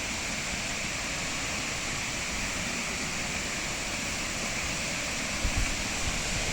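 Waterfall rushing: a steady, even roar of falling water, with a couple of brief low bumps about five seconds in.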